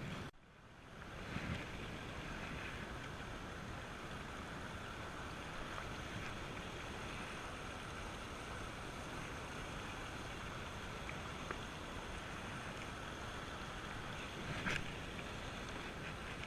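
Steady rush of moving river water around a canoe, with some wind on the microphone. The sound drops out for a moment right at the start, and a short, sharper sound comes near the end.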